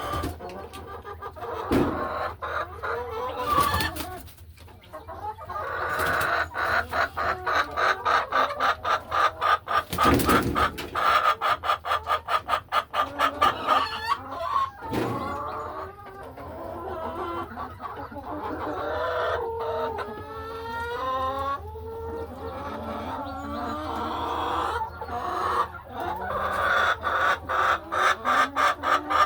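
Laying hens clucking in rapid runs, with a few longer calls that slide in pitch partway through and occasional sharp knocks.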